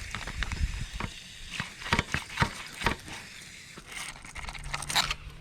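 Irregular clicks and light knocks of work at the engine while PB Blaster penetrating oil is put into the cylinder through the spark-plug hole, to free up rust on the cylinder walls.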